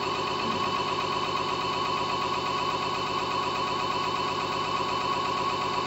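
Homemade generator rig, a 12-volt brushless (BLDC) hub motor driving a generator, running steadily. A steady high hum sits over a fast, even pulsing low down.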